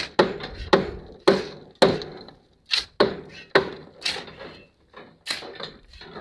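Hammer blows on wooden concrete formwork: sharp, uneven knocks, about two a second, with a couple of short pauses.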